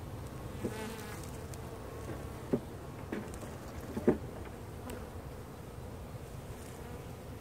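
A mass of honeybees buzzing steadily around an opened hive, with a few sharp knocks, the loudest about four seconds in.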